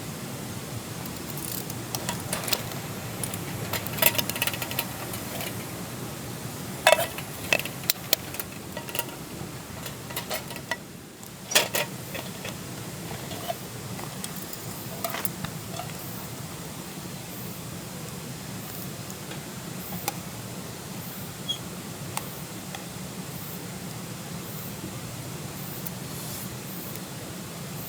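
Scattered light clicks, taps and clinks over a steady hiss; the clicks are busiest in the first half and thin out to occasional ticks.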